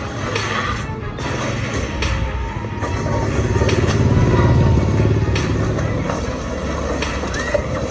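A heavy truck engine running under load, its low rumble swelling around the middle, with sharp knocks here and there and background music.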